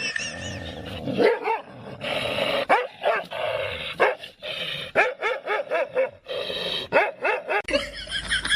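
A dog barking and yipping in many short, sharp barks one after another. Near the end it gives way abruptly to a different sound: a quick run of higher repeated calls.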